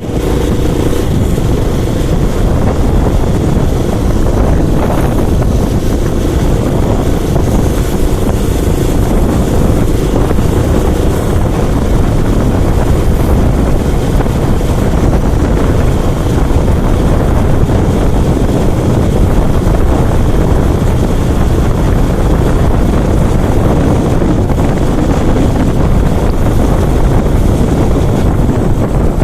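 Loud, steady wind rush on the microphone of a motorcycle riding at speed, with the Karizma's engine running underneath.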